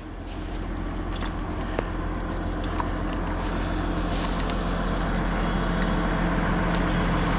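Diesel engine of a tracked logging machine running steadily and slowly growing louder, with a few light metallic clanks.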